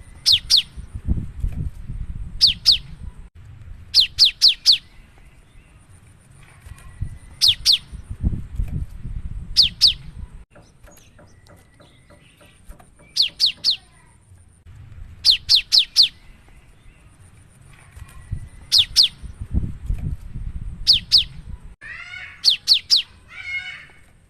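Cinereous tit (gelatik batu) singing vigorously: groups of two to four sharp, high, downward-sweeping whistled notes, repeated every couple of seconds. Near the end comes a harsher chattering call.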